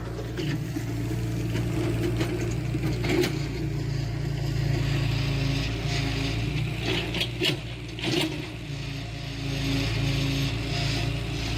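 Heavy diesel earthmoving machine running steadily, with several short metallic clanks and scrapes from its working parts, about three seconds in and again around seven and eight seconds.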